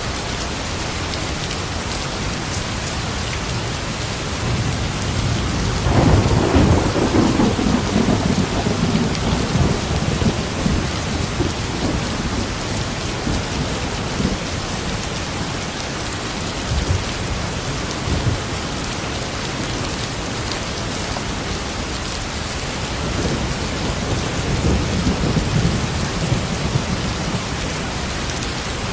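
Steady heavy rain with rolls of thunder: one rumble swells about six seconds in and dies away over several seconds, and a softer one follows near the end.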